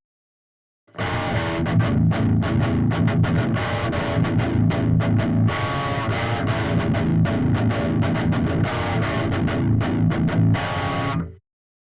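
Seven-string electric guitar with a Seymour Duncan Nazgul pickup, played through a Stomp Machines Prometheus distortion pedal (a Revv G3-style pedal) and a cabinet impulse response: a heavily distorted metal riff that starts about a second in and stops shortly before the end.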